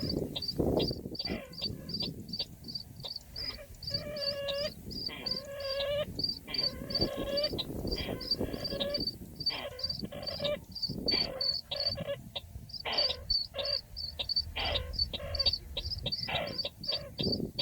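Calls of the bird known in Vietnamese as chằng nghịch: a fast, steady run of short high notes, about three a second, with lower downward-sweeping and buzzy pitched calls mixed in.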